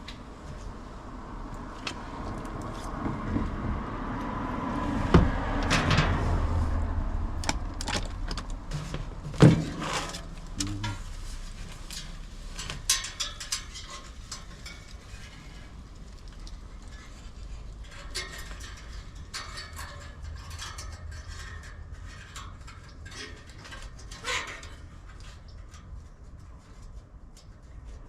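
Intermittent metallic clicks, knocks and clatter of tools and parts being handled during condenser fan motor wiring, with a low hum that swells a few seconds in and fades away.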